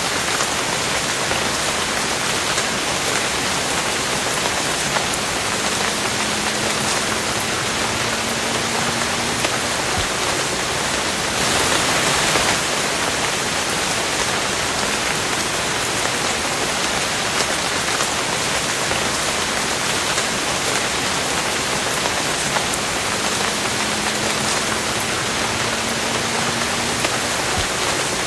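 Steady rain falling in an even hiss, with a brief louder swell near the middle.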